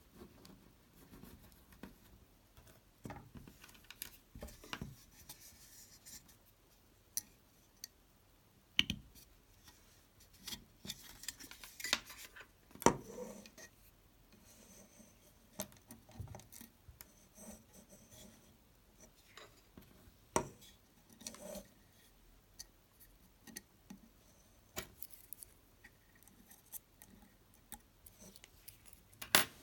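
Small tools and hard parts being handled: irregular clicks, taps and light scraping, with a few sharper knocks, the loudest about 9 and 13 seconds in.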